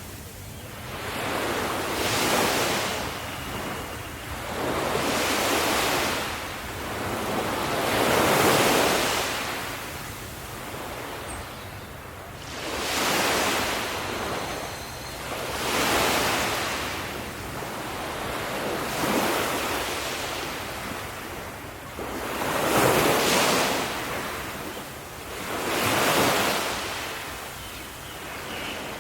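Ocean waves breaking on a shore one after another, each surge of surf swelling and washing out every few seconds, about ten in all.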